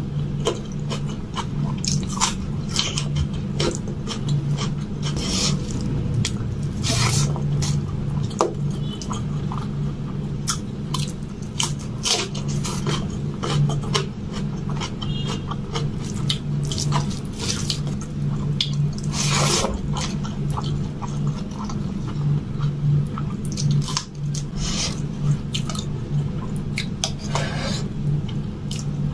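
Chewing and wet mouth clicks from eating rice and palak paneer by hand, with fingers mixing rice and curry on a steel plate; a steady low hum runs underneath.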